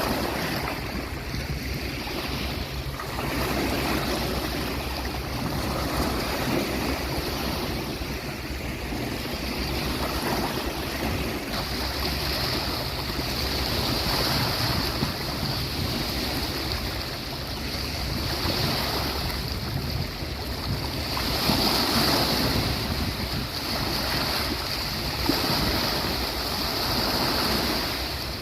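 Sea waves breaking and washing up the beach, a continuous surf that swells and eases every few seconds.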